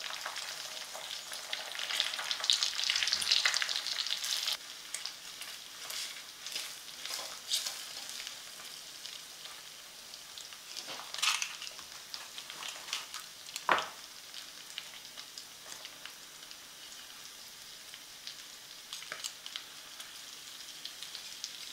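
Bacon and eggs frying in a bronze fry pan: a steady crackling sizzle of hot fat, louder over the first few seconds and then settling lower, with a couple of sharp clicks midway.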